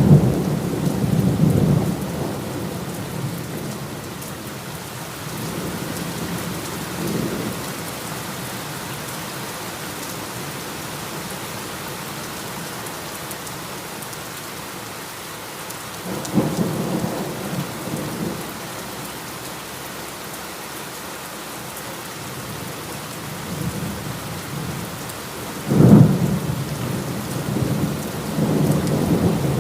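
Heavy rain falling steadily, with thunder rumbling several times. The loudest is a sharp clap that rolls on a few seconds from about 26 seconds in.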